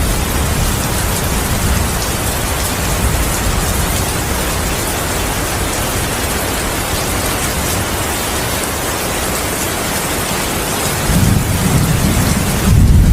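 Steady heavy rain hissing, with thunder rumbling deep and low: a rumble dies away at the start, and another builds about eleven seconds in and grows louder near the end.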